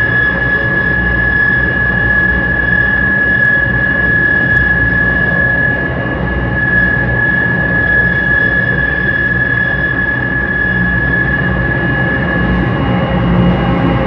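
Light rail train running at a steady speed: a continuous low rumble with a steady high-pitched whine over it.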